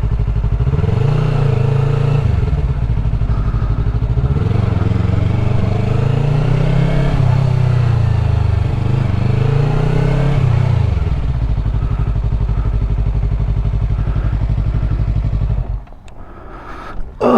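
Yamaha R3's parallel-twin engine running at low speed, its revs rising and falling several times, then settling to a steady idle before cutting off abruptly near the end.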